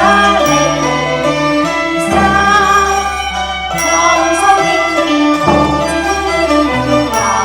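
Cantonese opera accompaniment music, a traditional ensemble playing a melody led by bowed strings over sustained low notes.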